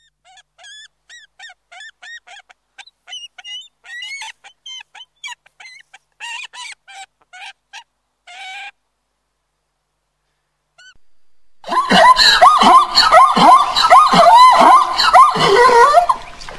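Farm fowl calling: first a long run of short, quiet, high calls, then after a pause of a few seconds a flock honking loudly, many overlapping calls at once.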